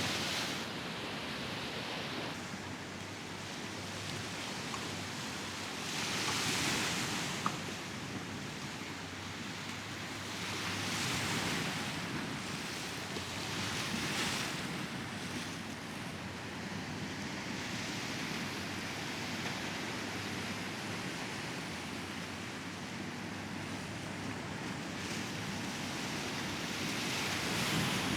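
Mediterranean waves breaking on the shore, the surf swelling and washing out every few seconds, with some wind on the microphone. A single sharp click about seven seconds in.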